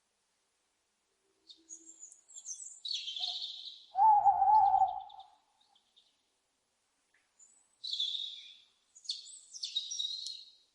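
Owl calls: a few short, high, raspy screeches, then about four seconds in one loud, wavering call lasting about a second. More high, raspy screeches follow near the end.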